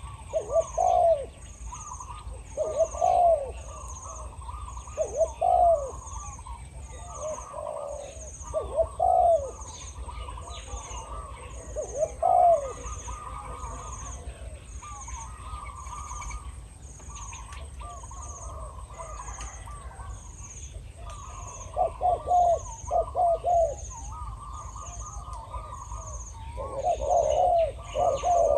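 Spotted doves cooing in repeated phrases, a decoy and a wild bird calling back and forth, with a quicker run of coos near the end.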